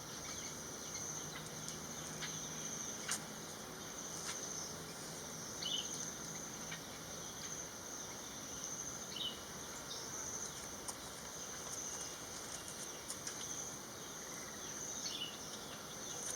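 Insects buzzing steadily at a high pitch, with a few faint short chirps breaking in now and then.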